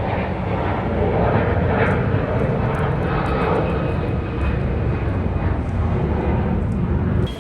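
Steady, loud rumbling drone of a vehicle in motion, engine and road noise with no clear pitch, starting and stopping abruptly.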